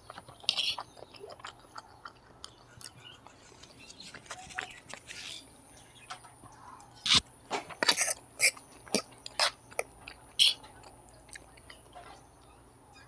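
Close-up mouth sounds of eating Maggi instant noodles and fried egg: chewing and smacking. Scattered sharp clicks run through it, coming thick and loud in the second half.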